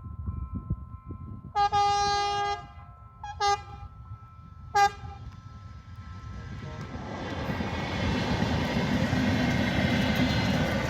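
Passenger train horn sounded three times: one long blast, a shorter one, then a very short toot. A rumble of the approaching train then builds up and holds steady.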